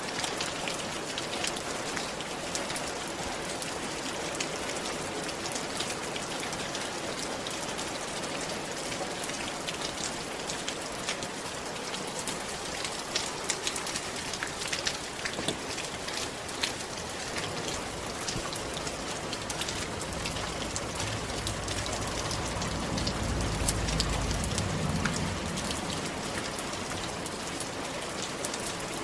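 Steady rain falling on a roof, with many separate drops ticking sharply over the even patter. Past the middle a low rumble swells for a few seconds and fades.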